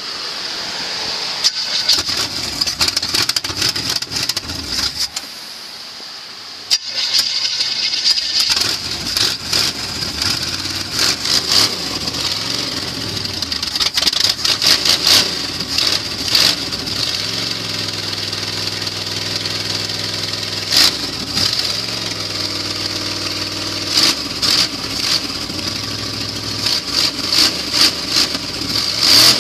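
Cold start of a 1976 Chevy stepside's modified V8 running through open headers: after cranking and a short lull, the engine catches about seven seconds in and runs unevenly, with sharp irregular exhaust pops over a lumpy idle.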